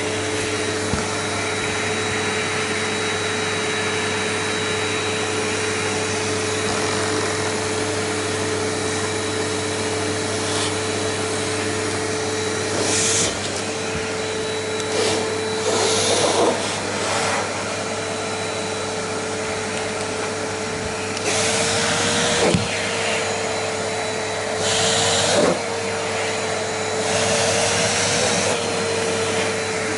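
Vacuum cleaner running steadily, its motor holding an even hum. Several times, about 13, 16, 22, 25 and 28 seconds in, it gives a brief louder hiss of air while its pitch wavers, as the suction load changes.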